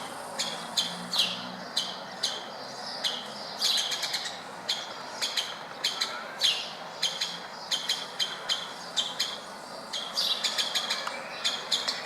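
Woodpeckers calling: short, sharp, high single calls repeated irregularly, with quick runs of calls near the end.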